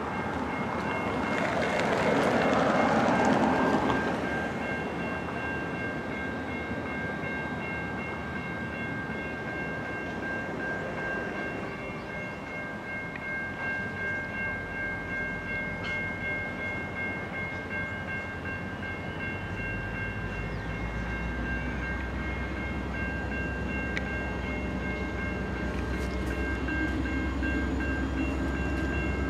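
Diesel freight locomotive hauling a train of loaded grain hopper wagons, with a louder rush of noise in the first few seconds. A low engine rumble sets in about halfway through and grows stronger in the last third. A steady high tone of a few held pitches runs over it from about five seconds on.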